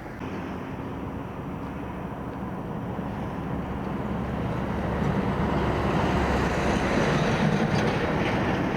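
A heavy vehicle engine, likely road-works machinery, running steadily with a low hum and a broad rumble. It grows louder about halfway through.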